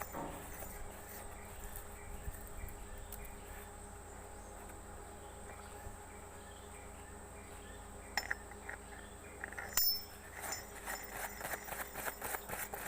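Steady faint background hum with a thin high insect-like buzz. Light clicks and taps come about eight seconds in and again near ten seconds, then a quick run of them near the end.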